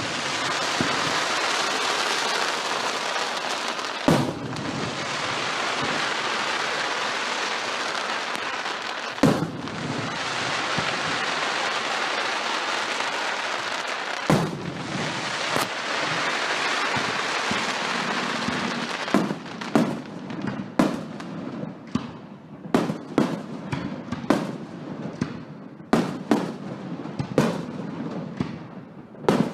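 Fireworks going off: a dense hiss of crackling with a few loud booms, then, in the last third, a quick run of separate sharp bangs, several a second.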